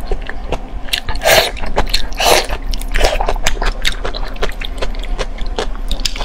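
Close-miked wet chewing and lip smacking of a person eating soft, sauce-covered braised meat: many quick wet clicks, with a few longer, louder wet mouth sounds about one, two and three seconds in.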